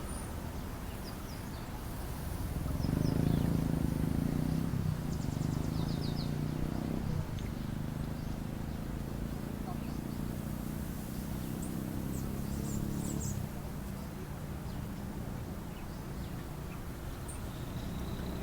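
A low droning hum, like a distant engine, swells about three seconds in and fades away after about thirteen seconds. Short, high bird chirps are scattered over it.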